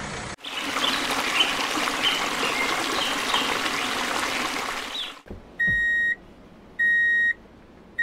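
Running, splashing water for about five seconds, with short high chirps in it, that cuts off abruptly. Then a steady electronic beeping starts: half-second beeps about every 1.2 seconds.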